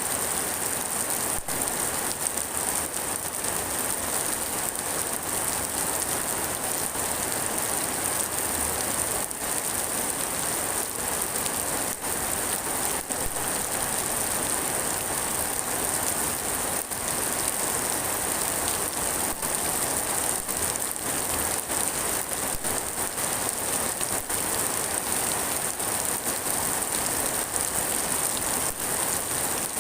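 Steady rain falling and pattering on surfaces, with a hiss of many drops.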